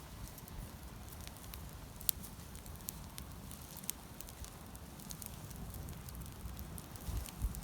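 Wood campfire burning, with sharp crackles and pops at irregular intervals over a low steady rumble; a few dull low thumps near the end.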